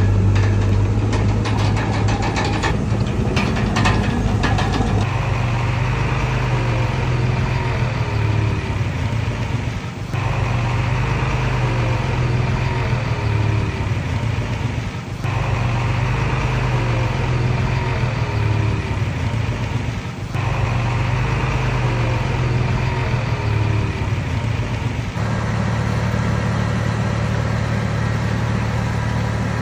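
Heavy diesel engine running steadily at a low, even speed, with rapid metallic clicking and clanking over the first few seconds.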